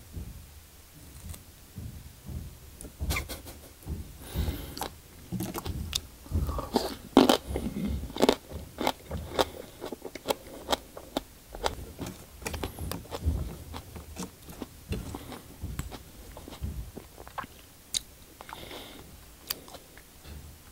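Close-miked chewing of raw aloe vera leaf pieces, wet and slimy, with many sharp, irregular clicks and crunches from the rind, loudest around the middle.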